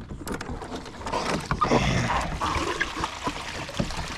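Clicks and knocks of fishing gear being handled aboard a kayak, with a louder rushing, splashy noise for about two seconds in the middle.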